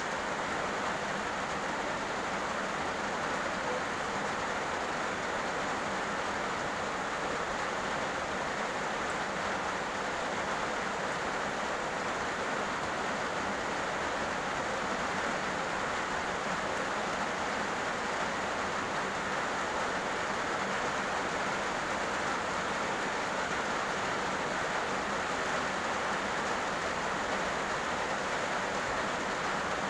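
Heavy rain falling steadily on a road, an even hiss with no breaks or separate drops standing out.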